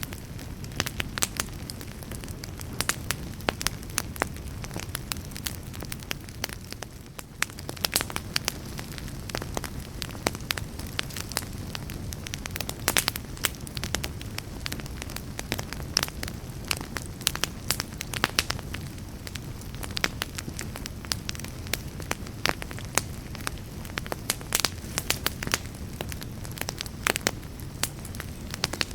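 Wood fire burning in a fireplace, crackling and popping: many sharp irregular snaps over a low, steady rumble of flame.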